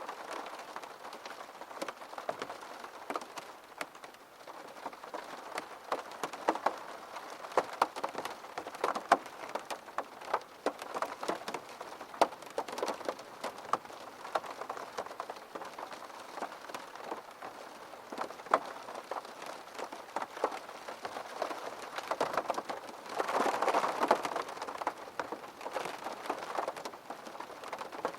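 Rain falling: a steady hiss dotted with the sharp taps of many individual drops hitting a surface, swelling heavier for a couple of seconds near the end.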